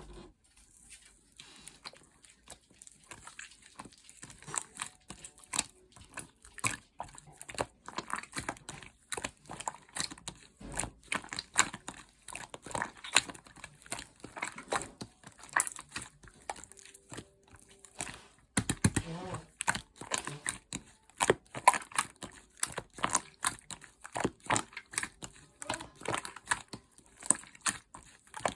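Slime being squished, stretched and pressed by hand: a dense, irregular run of sticky clicks, pops and crackles that starts softly and grows busier within the first couple of seconds.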